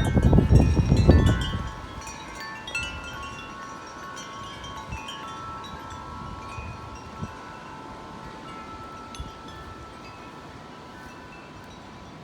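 Tubular wind chimes ringing in a strong gust. Heavy wind noise buffets the microphone for the first second and a half, then dies down, and the chime tones carry on with scattered strikes and slowly fade.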